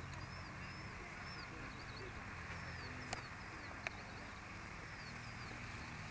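A small bird singing a scattered series of short, high, arching notes, over a low steady rumble, with two faint clicks about three and four seconds in.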